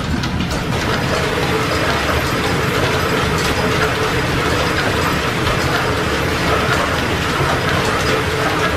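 Belt-driven metal lathe running off a line shaft, its gear train clattering steadily as it takes a threading pass at 5 threads per inch.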